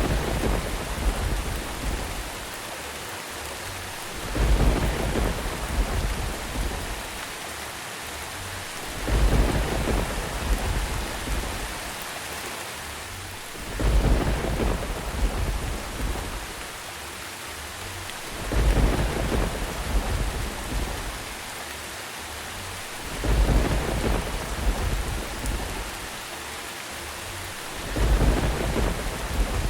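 Thunderstorm: steady rain with rolls of thunder at very even spacing, about one every four and a half seconds. Each rumble starts suddenly and fades over two or three seconds.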